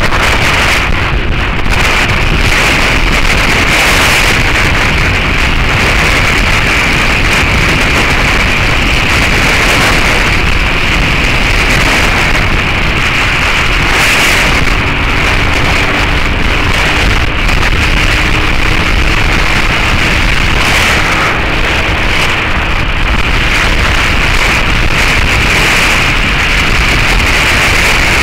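Heavy wind noise on a motorcycle-mounted action camera's microphone at road speed, largely drowning the Suzuki SV650S's V-twin with its Beowulf aftermarket exhaust. The engine's steady note shows faintly through the wind in the middle stretch.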